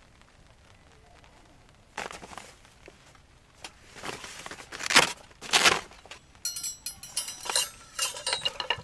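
Cooking gear being handled: a few knocks and rustling scrapes, then a quick run of ringing metal-and-glass clinks in the last couple of seconds.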